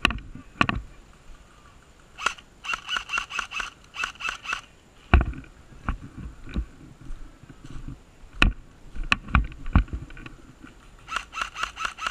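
Two rapid bursts of airsoft gunfire, each about two seconds of fast, evenly spaced shots, with scattered sharp knocks in between.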